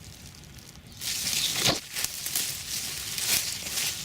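Leafy radish plants rustling and crackling as they are handled and pulled, starting about a second in.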